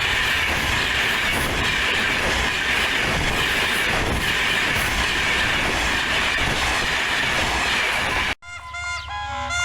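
A fast train hauled by a Henschel diesel locomotive passing at speed: a steady loud rush of wheels on rail with clickety-clack over the rail joints. It cuts off abruptly near the end, and a few held pitched tones follow.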